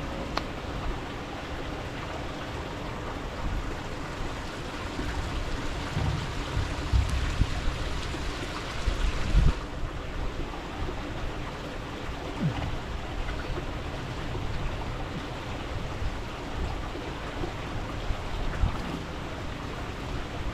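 Steady rushing noise with several low thumps about six to ten seconds in.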